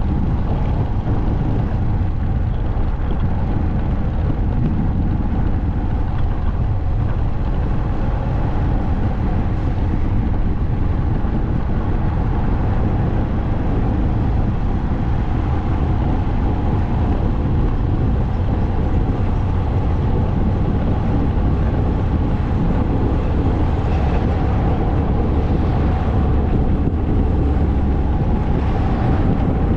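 Motorcycle running at a steady cruise on the road, its engine under a rush of wind and road noise.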